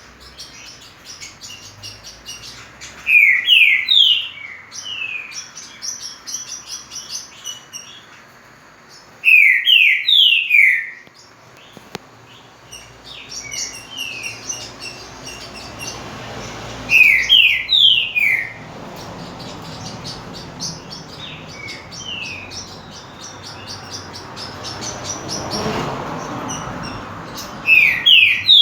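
Green-winged saltator (trinca-ferro) singing: four loud phrases of three or four quick falling whistled notes, repeated about every seven seconds, over steady fainter twittering of other small birds.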